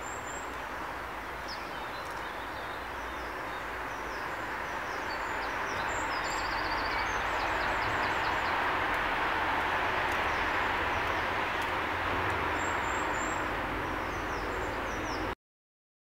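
Small garden birds chirping in short, high calls, with a quick trill about halfway, over a steady rushing background noise that swells through the middle and eases again. All sound cuts off suddenly near the end.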